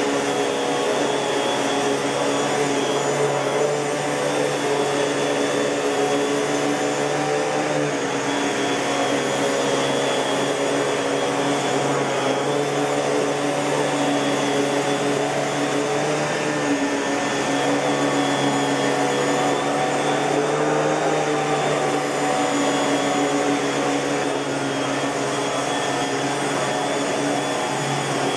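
Miele S658 canister vacuum cleaner running steadily: a continuous motor hum and airflow rush, with small shifts in tone now and then.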